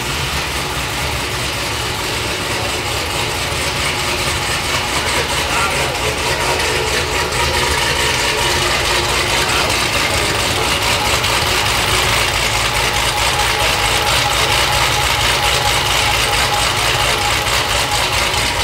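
A Cadillac CT5-V Blackwing's freshly installed 416-cubic-inch LME iron-block V8 idling steadily through its exhaust on an early run after the engine swap, getting a little louder over the first several seconds.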